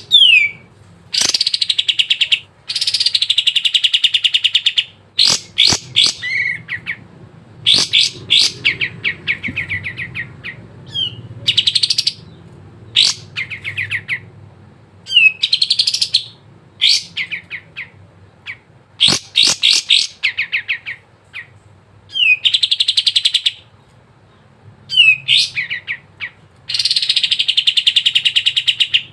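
Kapas tembak bird singing loudly and continuously: bursts of fast rattling trills a second or two long, alternating with short, sharp downward-sliding whistled notes.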